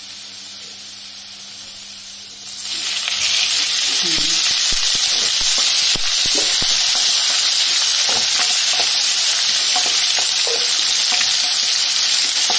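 Onions and whole spices frying in hot oil in a kadai. A quiet sizzle jumps to a loud, steady sizzle about two and a half seconds in. A spatula stirs and scrapes the pan with irregular clicks through the rest.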